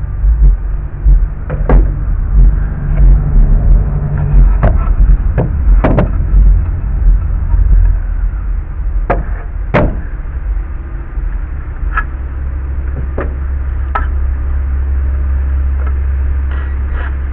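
Scattered sharp knocks and clacks of wood and tools being worked on a wooden deck, about eight over the stretch, over a steady low rumble.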